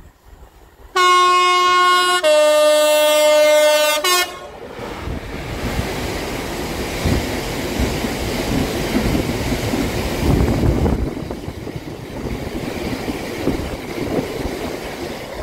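Class 66 diesel locomotive sounding its two-tone horn: a higher note for about a second, a lower note for about two seconds, then a brief high blip. It then runs through, followed by a long rake of loaded-style hopper wagons passing close by with a steady rumble and clatter of wheels over the rails.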